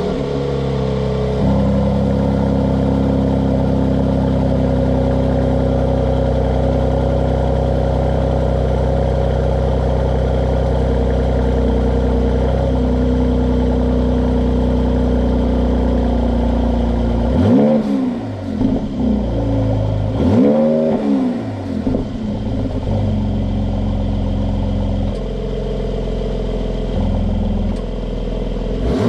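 Mercedes-AMG C43 (W206) 2.0-litre turbocharged four-cylinder, heard through its optional AMG sport exhaust. It idles steadily, is blipped twice (revs rising and falling at about 18 s and again at about 21 s), then drops back to idle.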